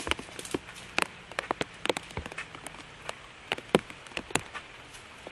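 Rain falling, with a steady hiss and irregular sharp ticks of drops striking close by.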